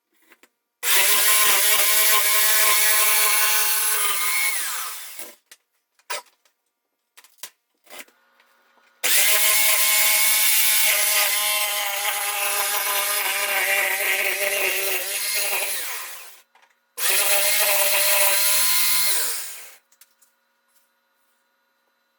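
Electric power saw cutting in three long runs of about four, seven and three seconds, its motor pitch dropping as it winds down at the end of each run, with a few light knocks in between.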